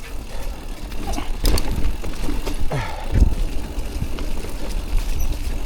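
Electric mountain bike riding down a wet, rough trail: a steady low rumble of tyres over the ground, with sharp knocks and rattles from the bike as it hits bumps.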